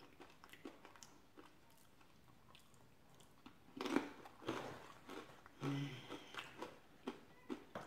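A Frito corn chip scoop loaded with chili being bitten and chewed close up. There is a loud crunching bite about four seconds in, then repeated crunchy chewing.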